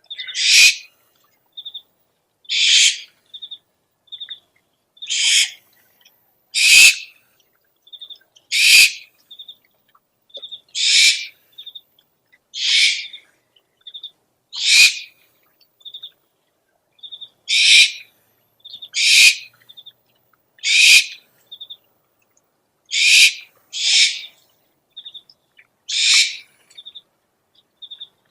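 Owl lure recording: harsh, hissing owl calls about half a second long, repeating every couple of seconds, with short high clear notes in twos and threes between them.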